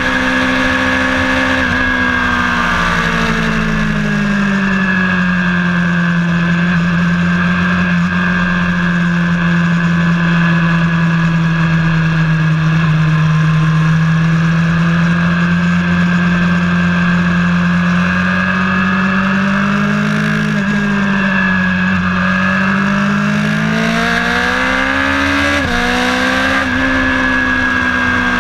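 A vehicle's engine running continuously under way. Its note drops over the first few seconds and holds steady for a long stretch. It then climbs over the last several seconds, broken by a couple of abrupt steps in pitch near the end that sound like gear changes.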